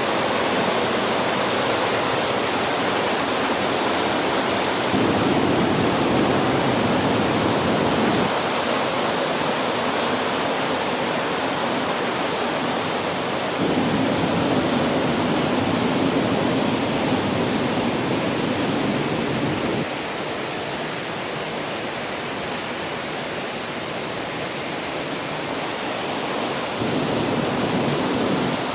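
Loud, steady rushing of falling water from a mountain waterfall. Its deeper part swells for a few seconds about five seconds in and again about fourteen seconds in, and thins out about twenty seconds in.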